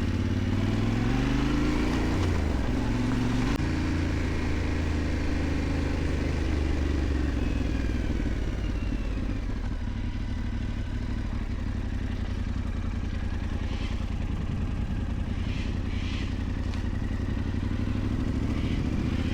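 Yamaha Ténéré 700's parallel-twin engine running as the motorcycle is ridden along a dirt track. The engine note rises and falls over the first few seconds, then holds steady, with a few short clicks later on.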